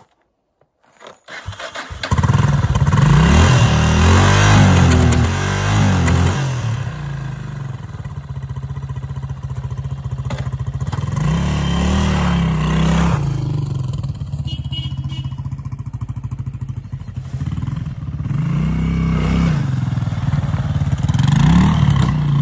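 1996 Yamaha TT600E's single-cylinder four-stroke engine, breathing through a non-original silencer, fired up on the electric starter about two seconds in, then revved up and down several times with rougher running in between, and pulled away near the end. The owner says it runs poorly at high revs and bangs when the throttle is opened.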